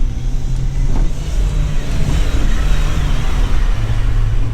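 Four-wheel drive engine working hard under throttle in soft sand, with a rush of noise through the middle, and its pitch dropping slightly near the end as the vehicle bogs down for lack of momentum.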